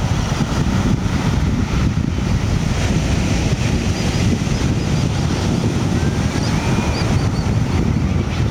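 Wind buffeting the microphone, a steady low rumble. Faint, short, high bird chirps come through it from about halfway in, with a brief thin whistle near the end.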